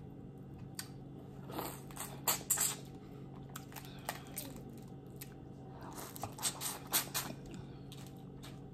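Close-up eating sounds of boiled crawfish: shells cracking and tearing, with chewing and smacking. They come in two clusters of short clicks and crackles, about 2 seconds in and again around 6 to 7 seconds in.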